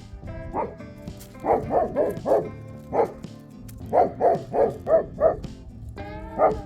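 A dog barking in quick runs of short, sharp barks, about a dozen in all, over guitar background music.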